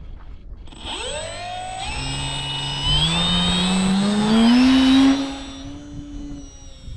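Brushless electric motor (EMAX XT2216) and 10x6 propeller of an RC model plane throttling up: a whine that rises in pitch from about a second in, is loudest about five seconds in, then falls away and fades.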